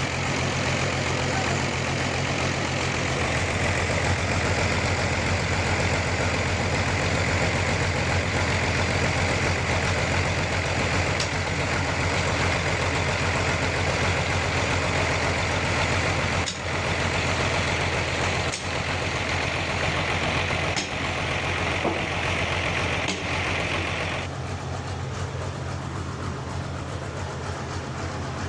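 Sawmill running and cutting through a large trembesi log: a steady engine hum under a loud, even hiss of the blade in the wood. The hiss stops about 24 seconds in, while the machine keeps running. A few sharp clicks come before that.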